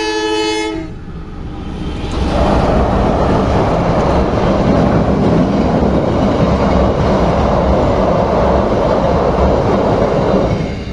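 A short train horn blast right at the start. From about two seconds in comes the loud, steady rumble of a KAI passenger train crossing a steel girder railway bridge, easing off near the end.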